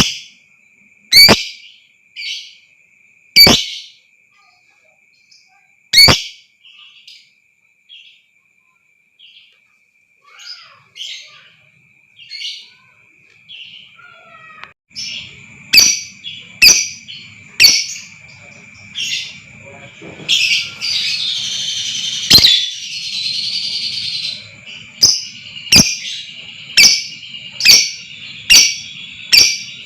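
Lovebird calls: sharp, shrill chirps, spaced out at first and then coming about once a second from halfway on, with a dense chattering stretch about two-thirds of the way through. A steady high tone runs underneath.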